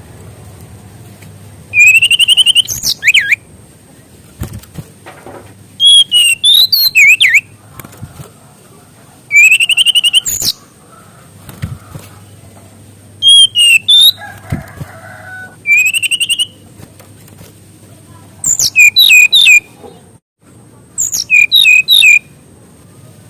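A brown-chested jungle flycatcher (SRDC) sings loud phrases of about a second each, seven times, a few seconds apart. The phrases mix clear rising whistles with quick warbled runs of notes, and the song is packed with mimicked phrases (isian).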